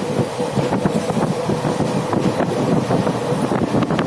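Indian Railways sleeper-class coach running along the track: a steady rumble of wheels on rails, with wind buffeting the microphone.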